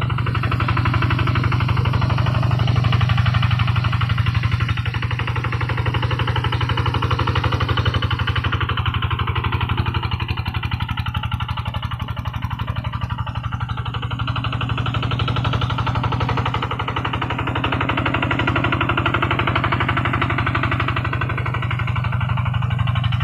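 Kubota RD110 single-cylinder diesel engine on a hand tractor running steadily under ploughing load, with a fast, even firing beat.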